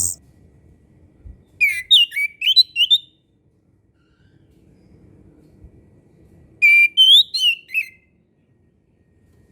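Chestnut-capped thrush (anis kembang) singing: two short phrases of quick, clear whistled notes sliding up and down, each lasting about a second, a few seconds apart.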